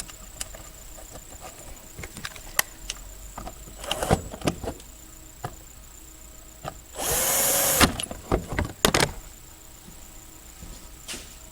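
Plastic clicks and knocks from handling the intake parts, then about seven seconds in a cordless drill-driver spins up for under a second, driving a factory screw back into the plastic air box. A few more knocks follow.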